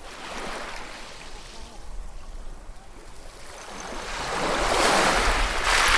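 Ocean waves breaking and washing up on shore: a small wash just after the start, then a bigger wave that builds from about four seconds in and breaks loudly near the end.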